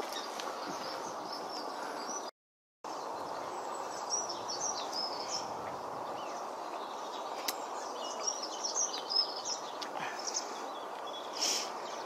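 Steady outdoor background noise with many short, high bird chirps over it. The calls are busier in the second half. The sound drops out completely for about half a second a little over two seconds in.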